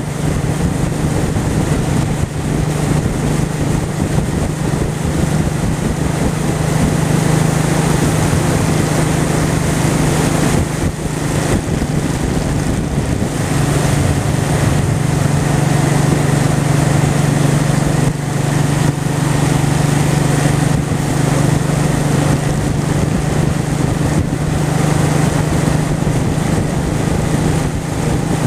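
Honda Shadow V-twin motorcycle engine running at a steady pace while riding, with wind noise over it; the engine tone dips briefly around the middle and then holds steady again.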